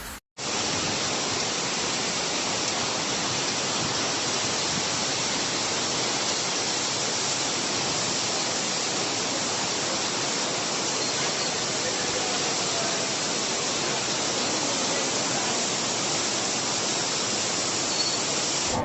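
Steady, even noise of a torrential rainstorm with strong wind, beginning just after a brief cut.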